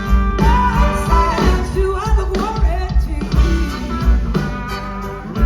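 Live blues-rock band playing, with a lead vocal line over electric guitar, bass and drums keeping a steady beat.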